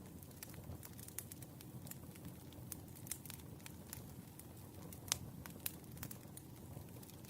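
Burning firewood crackling, with small irregular pops and one sharper pop about five seconds in, over a low, steady rumble of the fire.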